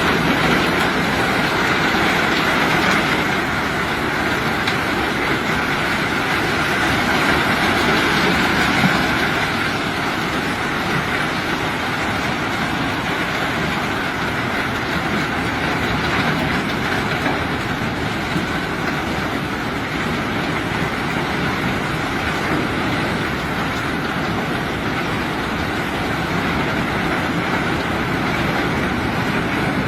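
Steady mechanical rumble and rattling of heavy machinery unloading rock.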